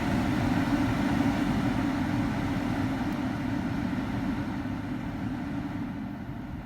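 Dodge Dakota HVAC blower fan running at full speed on a pulse width modulation controller fitted in place of the burnt-out blower resistor, a steady whooshing hum that grows gradually quieter.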